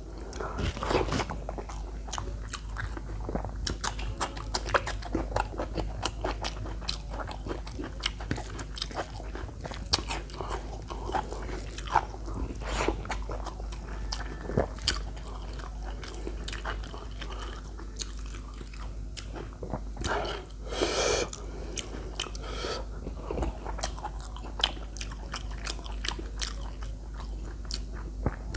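Close-miked eating: a person biting, crunching and chewing spicy chicken feet, with irregular sharp crunches and wet mouth clicks throughout. A louder second-long rush of noise comes about two-thirds of the way through.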